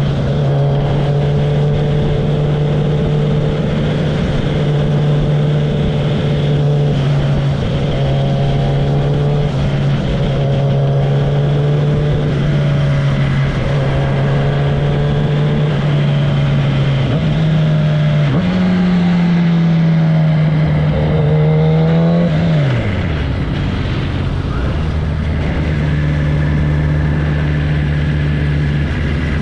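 Kawasaki ZX-10R inline-four with its tailpipe removed, ridden at a steady engine note that shifts only slightly, over wind noise. About two-thirds of the way in the revs hold a little higher, then fall away sharply as the throttle closes, and the engine settles at a lower, steady note.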